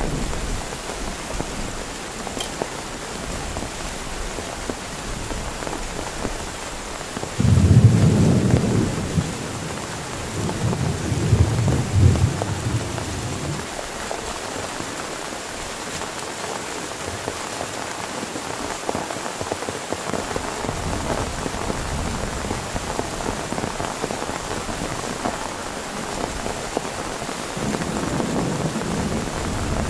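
Heavy rain falling steadily, with two loud low rolls of thunder, one about seven seconds in and another about ten seconds in, and a fainter rumble near the end.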